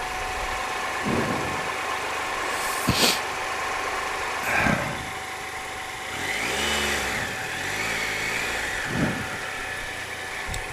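Triumph Explorer 1215cc three-cylinder engine idling, with a brief rise and fall in revs about six to eight seconds in. A sharp knock sounds about three seconds in.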